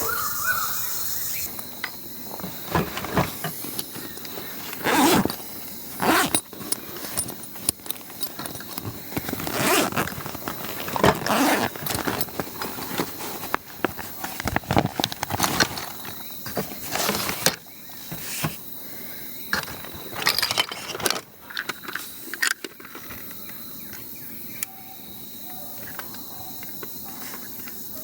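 Irregular knocks, clatters and scrapes of things being handled, over a steady high-pitched insect drone.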